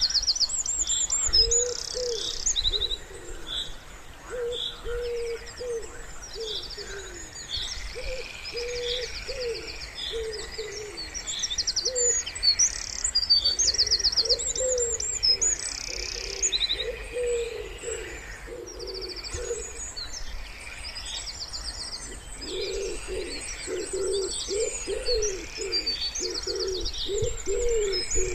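Wood pigeon cooing in repeated phrases, the cooing coming thicker near the end, while songbirds sing high chirps and rapid buzzy trills.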